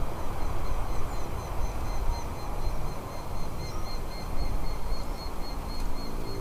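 A rapid series of thin, high chirps from a bird, a few each second, over a louder, steady low rumble of noise.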